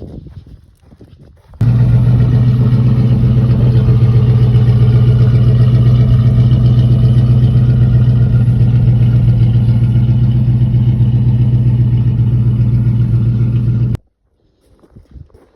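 1987 Chevrolet Blazer's engine running loudly and steadily, cutting in abruptly about a second and a half in and stopping suddenly near the end.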